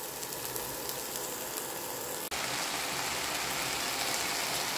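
Steady sizzle of garlic, chilli and dried anchovies frying in oil in a pan. About two seconds in it cuts to a slightly louder, even sizzle of durian flowers frying.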